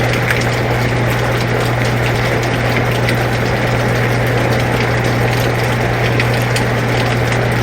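An air conditioner running with a steady low hum, mixed with the even hiss of falling rain and scattered faint drips.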